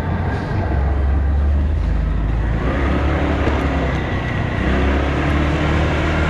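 Motorcycle engine running under way, its note climbing slightly a couple of times as it speeds up.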